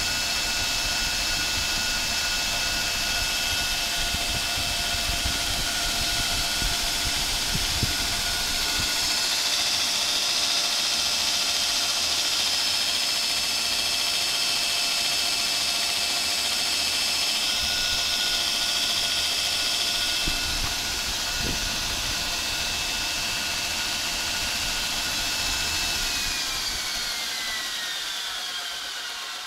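Belt grinder driven by a 2 HP electric motor running at speed: a steady multi-tone whine over belt hiss, with a stretch of brighter hiss in the middle. Near the end the whine slides down in pitch and fades as the machine winds down.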